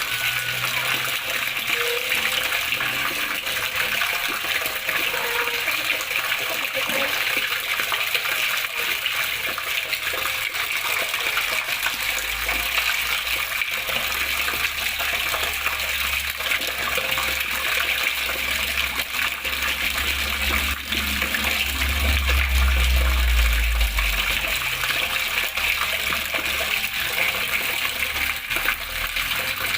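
Water flowing and splashing steadily, an even hiss-like rush. A low rumble joins it from about 12 seconds in, grows loudest around 22 to 24 seconds, then fades.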